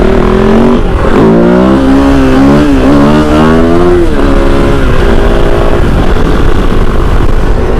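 Kove 450 Rally's single-cylinder engine under way, its pitch rising and falling several times as the throttle is worked, then running steadier in the second half.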